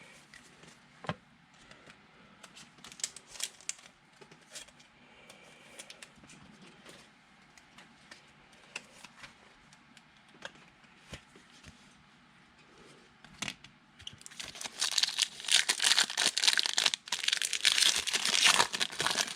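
Trading cards being handled, with scattered light clicks and taps, then about 14 seconds in a foil card-pack wrapper is torn open and crinkled, much louder than the handling before it.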